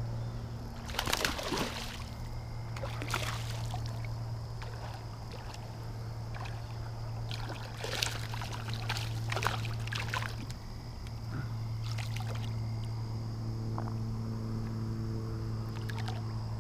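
Water splashing and sloshing in irregular bursts as a hooked smallmouth bass is fought and landed in a shallow river, over a steady low hum.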